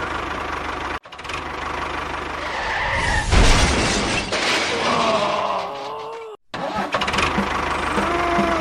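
An engine running with a steady low pulse, cut off abruptly twice, with a loud noisy rush about three seconds in and some falling gliding tones shortly after.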